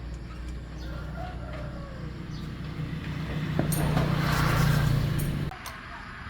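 A motor running with a steady low hum, growing louder with a hissing rush from about halfway through, then cutting off suddenly near the end.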